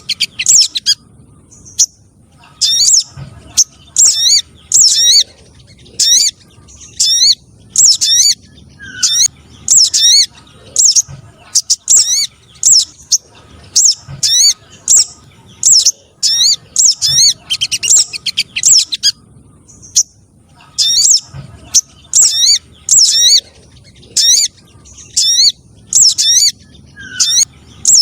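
Bird-lure recording of sogon trotol, a streaked spiderhunter, giving short bursts of rapid, high, sweeping chirps about once or twice a second. The calls pause for a moment a little past the middle.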